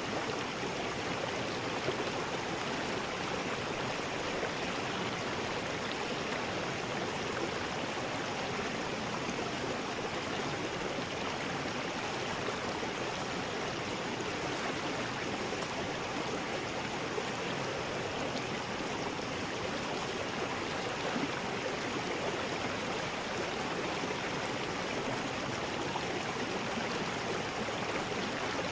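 River rapids: water rushing steadily over rocks, an even unbroken rush.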